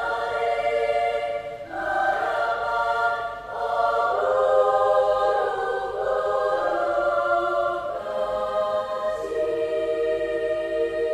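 A mixed-voice school choir singing in close harmony, moving through sustained chords. It settles into a long held chord from about nine seconds in.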